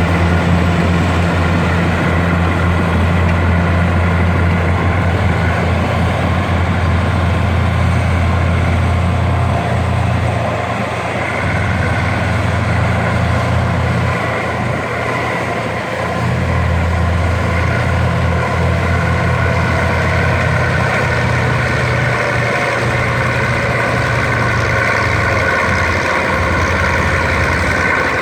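Komatsu D60P crawler bulldozer's diesel engine running under work, a steady low engine note with a higher whine over it. The engine note eases off for a few seconds around the middle, then comes back up.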